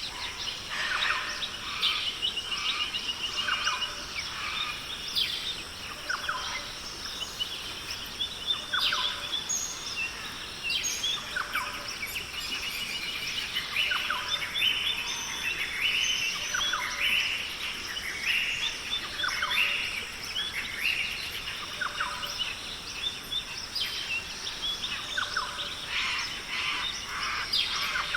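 A chorus of many Australian rainforest birds calling and chirping at once, with short, overlapping calls throughout, over a steady high-pitched background hiss.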